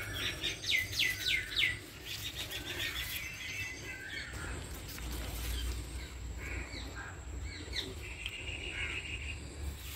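Birds calling: a rapid run of repeated sweeping chirps, about four a second, for the first two seconds, then fainter scattered chirps.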